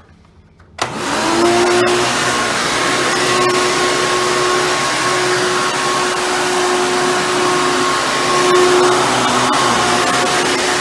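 Hoover Bagless Twin Chamber direct-air upright vacuum switched on a little under a second in, its motor spinning up with a brief rising whine, then running steadily with a loud whining hum.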